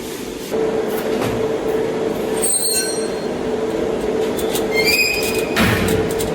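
A steady, metallic-sounding squeal that sets in about half a second in, with sharper high screeches about two and a half and five seconds in. It is the strange, unexplained noise being tracked down.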